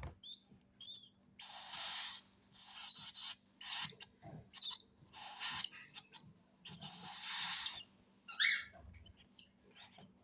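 Baby cockatiel chicks making raspy, hissing begging calls in a series of short bursts, the longest about a second each, with a few brief chirps, the food-begging calls of chicks being hand-fed.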